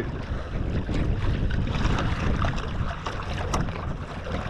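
Wind buffeting the microphone over water sloshing around a kayak, a steady rushing noise with a few faint knocks.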